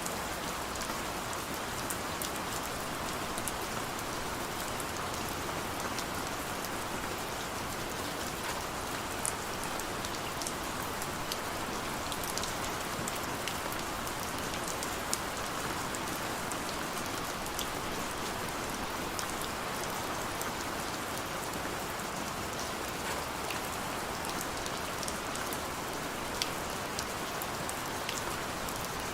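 Heavy rain falling steadily, a constant hiss of rain with scattered sharp drip and drop ticks.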